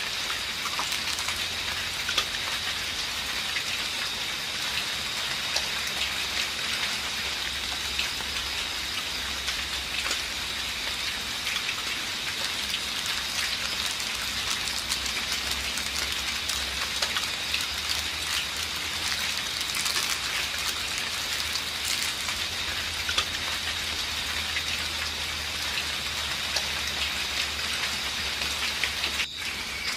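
Light drizzle falling steadily, with many small drop ticks, and a steady high-pitched tone running through it.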